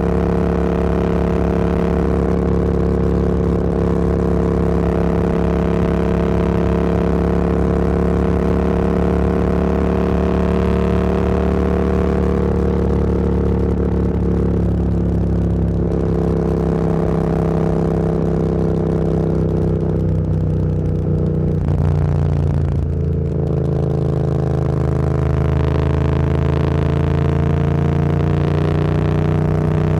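Motorcycle engine running under way at a steady cruising pitch. A little after twenty seconds in the engine note falls briefly, then climbs slowly again as the bike picks up speed.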